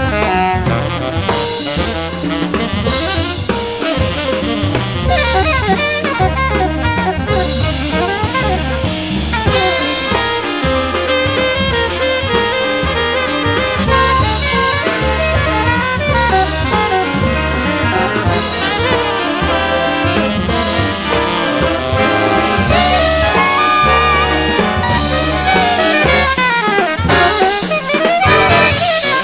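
Recorded jazz playing as background music: horns over a drum kit keeping a steady beat.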